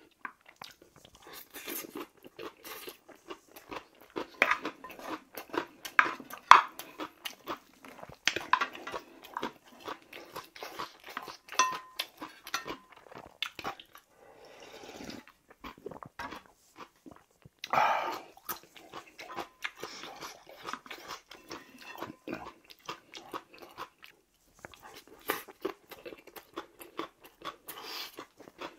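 Close-up mukbang eating: chewing and crunching of bibimbap mixed with raw kohlrabi salad, with the spoon clicking against the rice-cooker pot. About halfway through, ramen broth is slurped straight from the pot.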